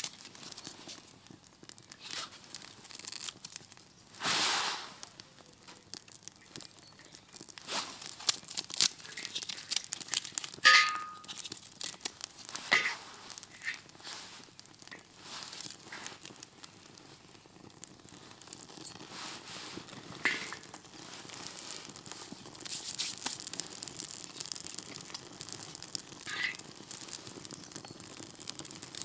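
Fire being started in an outdoor fire pit: tinder and kindling crinkling and tearing as they are handled, with irregular sharp snaps and crackles, denser for a few seconds past the middle.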